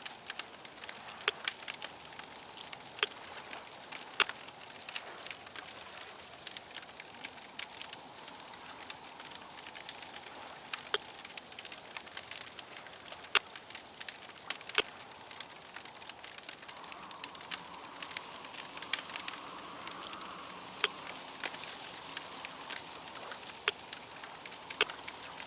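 Wood fire crackling, with irregular sharp pops over a steady low hiss; a faint rushing swells from about two-thirds of the way through and eases off a few seconds later.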